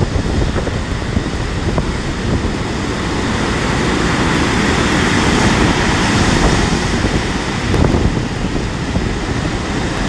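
Storm surf breaking and washing over a shingle beach, with strong wind buffeting the microphone. The noise swells louder in the middle.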